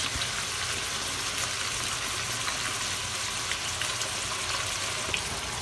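Chicken hearts, tofu and vegetables sizzling in oil in a pot, a steady even hiss.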